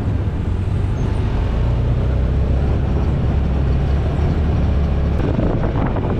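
UTV (side-by-side) on the move: a steady engine and rolling rumble mixed with wind noise.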